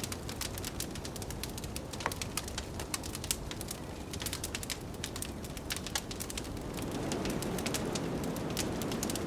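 Wood fire crackling with frequent irregular pops over a steady low rush of blizzard wind. The wind swells louder about seven seconds in.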